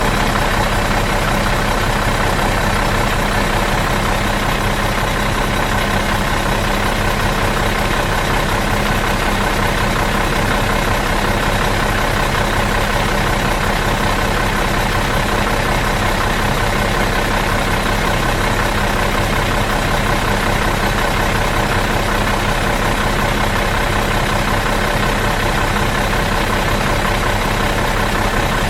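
Bus engine idling in neutral, a steady unchanging hum with no revving.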